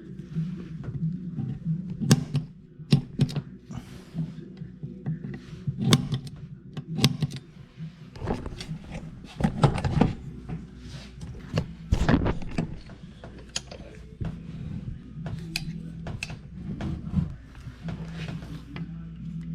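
Scattered sharp knocks and clinks of metal being handled and tapped, irregular rather than rhythmic, over a low steady hum.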